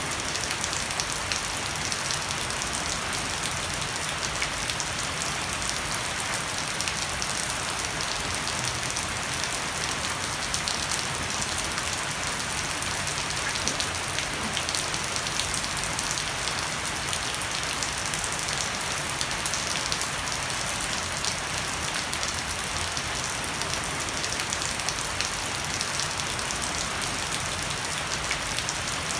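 Heavy rain falling steadily on a wooden deck and garden foliage, with water running off the edge of a thatched roof: an even hiss dotted with many small drop patters.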